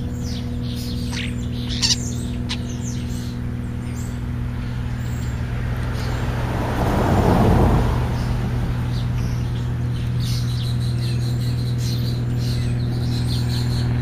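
Birds chirping, with short sweeping calls early on and a run of repeated high chirps in the last few seconds, over a steady low hum. A brief swell of noise rises and fades about halfway through.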